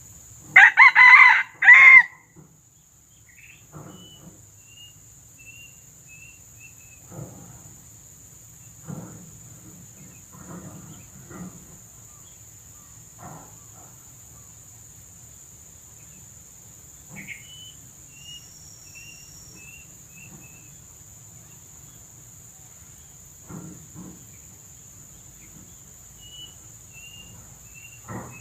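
A red junglefowl rooster crows once, loud and short with a clipped final note, about half a second in. Afterwards, three times, another bird gives a faint run of high, slightly falling notes, with scattered faint rustles in between.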